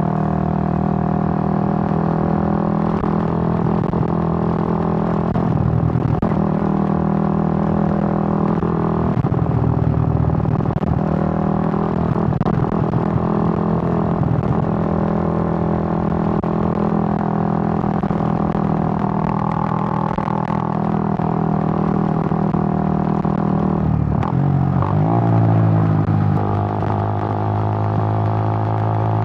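Suzuki GN125's single-cylinder four-stroke engine running steadily under way at a constant drone. About 25 seconds in, the engine speed falls and settles at a lower, steady pitch.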